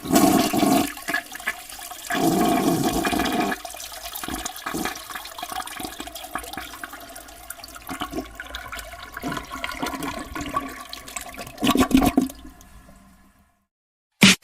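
Rushing water, with two louder surges in the first few seconds, then a steadier run that fades out and stops shortly before the end.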